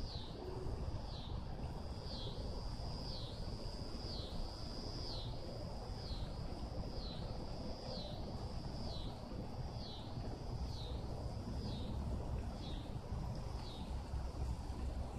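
A bird repeating a high, thin call about once a second, each note held briefly and then dipping at its end; the calls stop near the end. A steady low rumble lies underneath.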